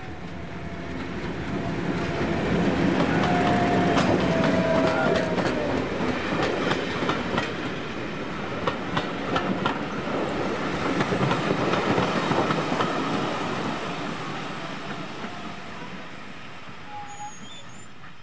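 A diesel-hauled train passing: the diesel engine's rumble builds, swells twice and fades away, with a run of wheels clicking over rail joints midway through.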